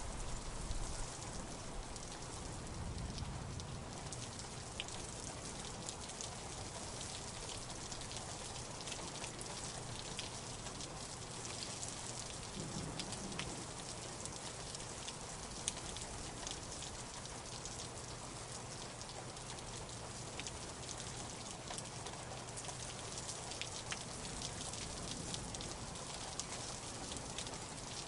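Steady rain falling, a constant hiss with frequent sharp ticks of individual drops.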